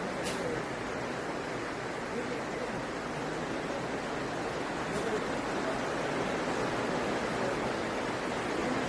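Steady, even rushing noise of a large blower running.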